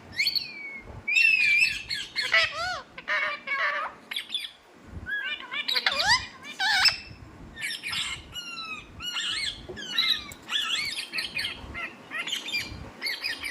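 A parrot squawking and whistling in a fast string of short calls that slide up and down in pitch, with a brief lull about a third of the way in.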